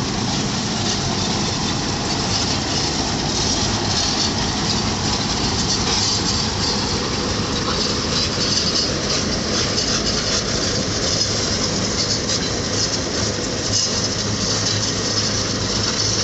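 Road cold-milling machine at work, its diesel engine running under load while the cutting drum grinds up the dense bituminous macadam (DBM) layer of the road and the conveyor loads the millings into a dump truck. A loud, steady grinding noise with a low engine hum beneath.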